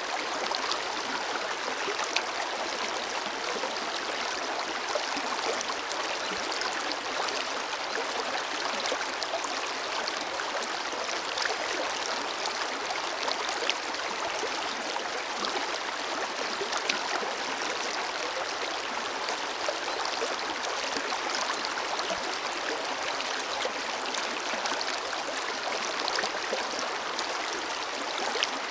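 Forest river flowing steadily over stones, a constant rushing with small splashes and gurgles.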